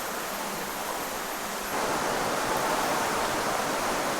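Steady rush of falling and running water from a waterfall, getting louder a little under two seconds in.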